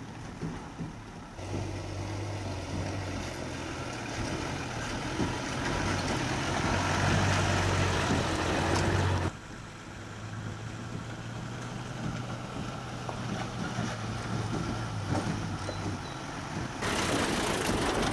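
Four-wheel-drive vehicle's engine running steadily through a creek crossing, with a rushing noise building from about six seconds in. The sound cuts off abruptly about nine seconds in and the engine picks up again, quieter.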